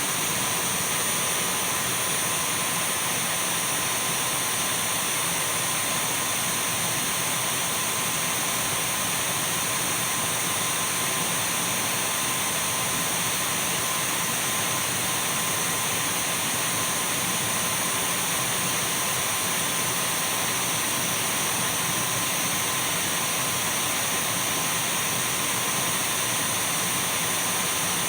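Dyson V12 cordless stick vacuum running continuously: an even rush of air with a steady high motor whine, unchanging throughout.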